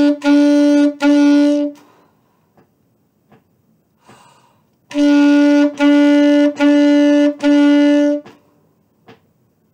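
Saxophone playing one note tongued in short, evenly spaced detached notes, four to a group: the end of one group of four, a rest of about three seconds with a faint breath, then another group of four. This is the beginner tonguing exercise on 'me', played with the first finger only.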